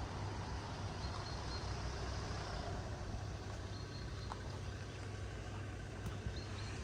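A vehicle engine idling with a steady low hum, with a few faint, short, high chirps now and then.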